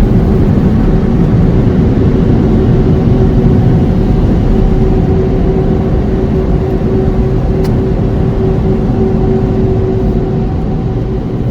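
Automatic car wash machinery heard from inside the car: a loud, steady rumbling rush with a steady hum over it, easing off a little near the end.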